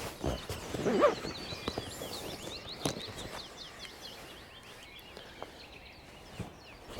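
Woodland birdsong: many quick, high chirping notes through the first half, with a short louder call about a second in and a few light clicks.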